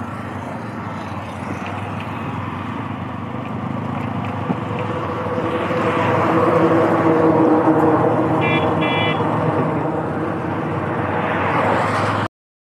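TVS Apache RTR 160 motorcycle's single-cylinder engine running under way, with wind and road noise that grow louder from about halfway as the bike picks up speed on the highway. Two short high beeps come about two-thirds of the way through, and the sound cuts off abruptly just before the end.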